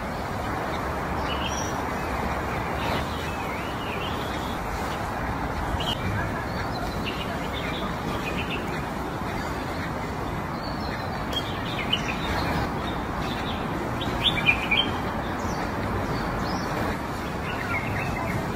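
Small birds chirping off and on over a steady outdoor background noise. A few short, sharp crunches come about two-thirds of the way through, from a giant panda biting and chewing bamboo shoots.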